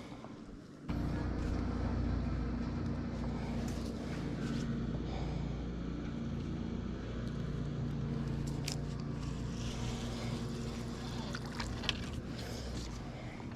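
A boat motor switches on suddenly about a second in and runs at a steady hum, with a few faint clicks over it.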